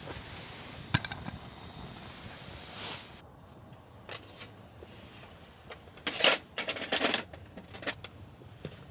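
A steady hiss that cuts off suddenly about three seconds in, followed by a run of light clicks and clatters, the loudest cluster about six to seven seconds in.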